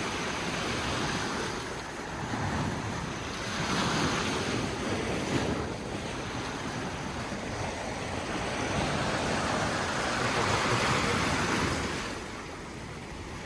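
Sea waves washing in against the shore, swelling and falling back a few times, with wind buffeting the microphone.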